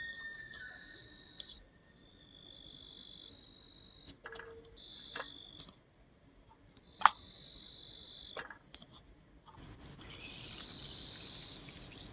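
Insects trilling in steady high tones that stop and start, with a few sharp clicks, one of them loud near the middle. In the last couple of seconds a steady hiss sets in.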